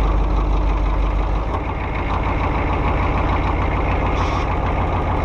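Vehicle engine running steadily, its deep low end dropping back about a second and a half in.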